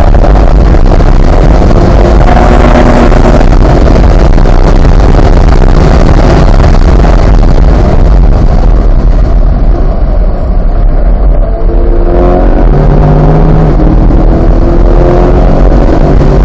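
C8 Corvette's 6.2-litre LT2 V8 being driven hard on a race track, loud, with a rushing noise over the engine. About eight seconds in the engine eases off briefly. From around twelve seconds its note climbs again as the car accelerates.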